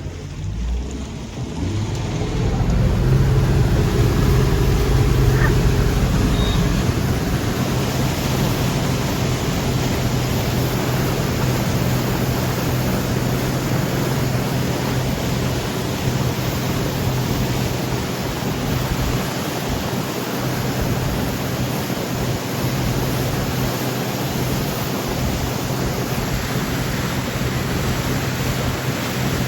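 Motorboat under way: its engine running with a steady low hum under loud rushing wind and water noise on the microphone, growing louder about two seconds in.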